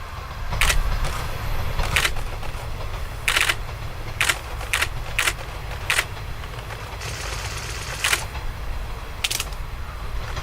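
Old diesel railcars running past with a steady low rumble, their wheels clacking sharply and irregularly over rail joints, sometimes in quick pairs.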